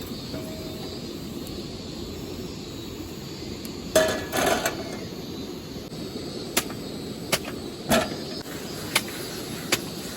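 A series of sharp knocks at irregular intervals, starting about four seconds in with a loud pair, then single knocks roughly every second, over a steady background hiss.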